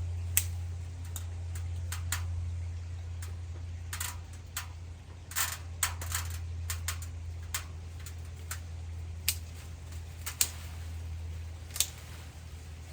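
Hand pruning shears snipping: irregular sharp clicks, a dozen or so, some louder than others, over a steady low hum.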